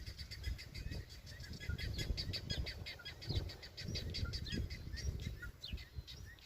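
Young birds giving a rapid, dense run of short high chirps, thinning near the end, over irregular low thumps and rumble.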